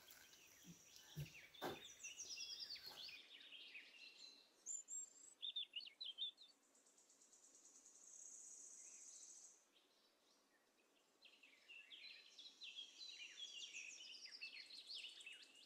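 Faint birdsong: small birds chirping and twittering in several bouts, with a high, even trill about halfway through.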